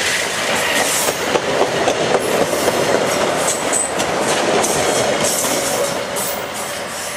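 VIA Rail Canada passenger train passing close by at speed. Its wheels clatter over the rail joints in a steady rush of noise, which fades a little near the end as the last car goes by.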